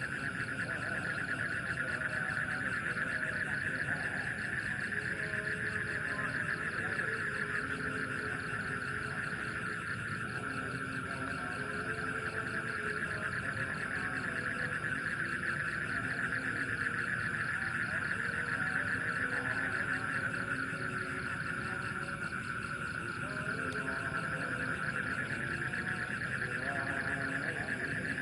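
Night chorus of insects, a steady high trill that does not let up, with frogs calling at lower pitch beneath it.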